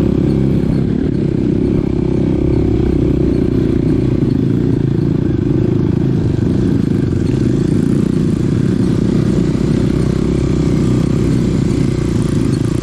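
Small dirt bike's engine running at a steady pace while riding a rough trail, loud and even throughout.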